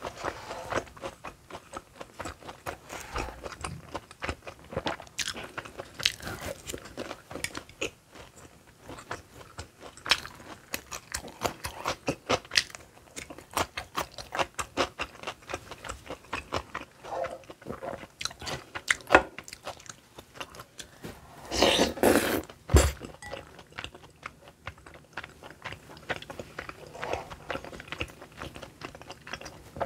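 Close-miked chewing and crunching of fried, breaded snacks and rice cakes, with many small crisp bite sounds throughout and a louder burst of crunching about two-thirds of the way in.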